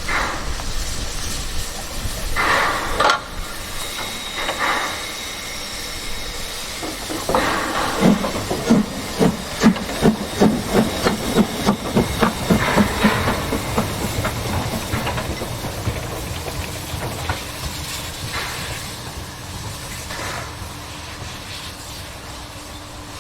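Steam locomotive giving off short hisses of steam, then a run of sharp regular beats, about three a second, as a train gets moving; the beats fade into a steady rumble.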